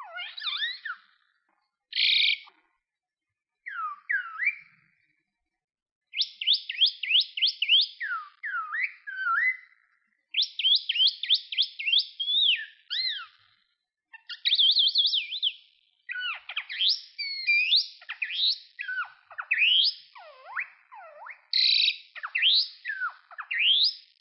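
Common myna singing a varied string of loud whistled notes, quick rising and falling slurs and fast chattering runs. It comes in phrases broken by short silences.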